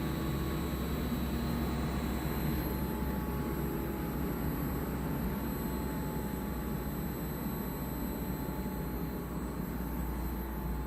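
LG Dual Inverter window air conditioner spinning down after being switched off: a steady rush of fan air and hum, with some of its tones and upper hiss dropping away about two or three seconds in, then slowly getting quieter.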